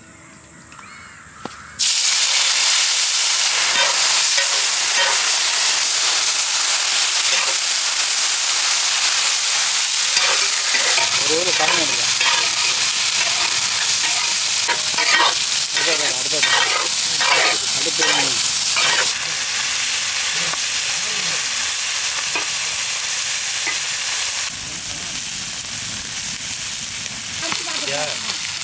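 Marinated squid rings frying in hot oil on a large flat tawa, sizzling loudly while being stirred with a metal spatula. The sizzle starts suddenly about two seconds in as the squid hits the oil, and eases later on.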